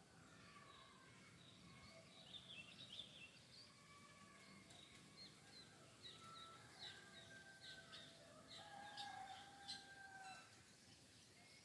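Faint birds chirping: many short, quick chirps, with a few longer held notes, over a soft background hiss.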